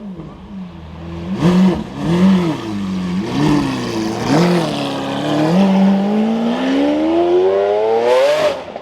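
Lamborghini Aventador SV's V12 revved in several short rises and falls, then one long rising rev as the car pulls away and accelerates.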